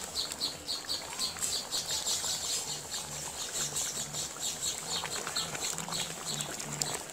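Small birds chirping, short high calls repeating several times a second, over a faint low hum.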